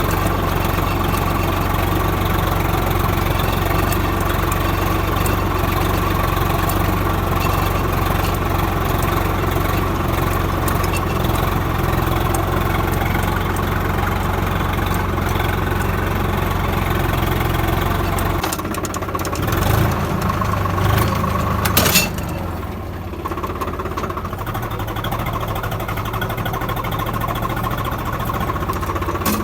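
Swaraj 855 tractor's three-cylinder diesel engine running steadily under work. About two-thirds of the way through the engine note changes and its deep rumble drops back, and a few seconds later a single sharp bang sounds.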